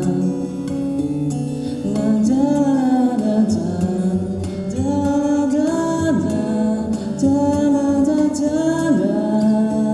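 Acoustic guitar playing chords under wordless singing, the voice gliding up and down in phrases about two, five and eight seconds in.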